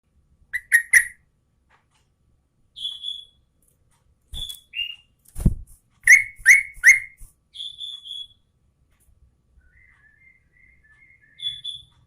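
Yellow-vented bulbul calling: sharp chirps in quick groups of three and clear short whistles, with faint twittering near the end.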